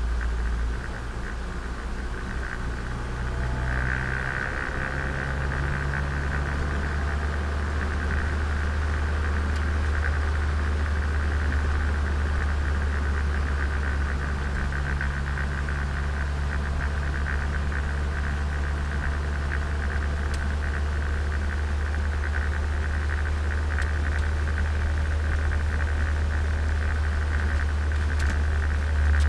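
Turbocharged Nissan Micra's engine and exhaust heard from inside the car while driving: a steady low drone with an even higher hum above it, holding much the same pitch throughout.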